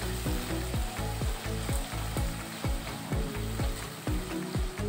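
Chopped onions, green chillies and curry leaves sizzling in hot oil in a kadhai as a spatula stirs them, over background music with a steady beat of about two strokes a second.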